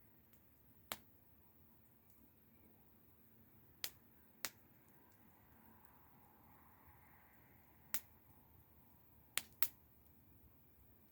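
Wood fire burning with sparse, sharp pops and snaps of burning wood, about six over a few seconds.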